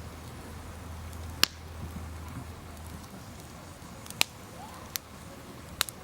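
Wood campfire crackling quietly, with four sharp pops of burning wood spread through. A low hum fades out about halfway.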